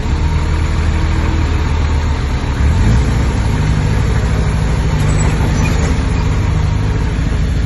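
Heavy diesel engine of a Komatsu D20P bulldozer running steadily, picking up revs about three seconds in and holding there.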